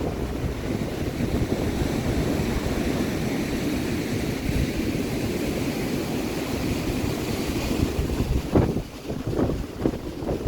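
Steady rushing noise of wind and ocean surf, with a hiss that swells and fades through the middle. Near the end, wind gusts buffet the microphone with uneven low thumps.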